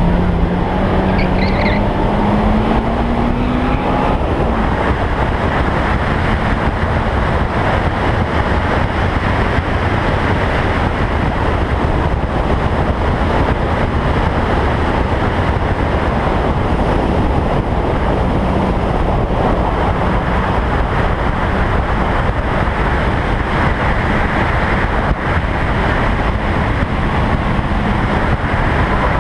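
Toyota Sprinter Trueno's engine running hard on track, heard from a camera mounted outside the car, mixed with a steady rush of wind and road noise. The engine note climbs in the first few seconds.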